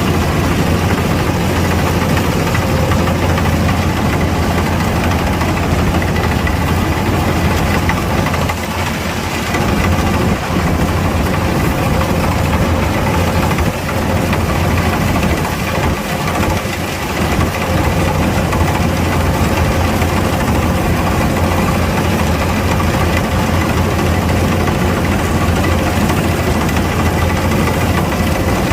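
Kubota DC-105X combine harvester's diesel engine and machinery running steadily under load, a constant low drone with a thin steady whine above it. The sound eases briefly a couple of times, about nine seconds in and again around sixteen seconds.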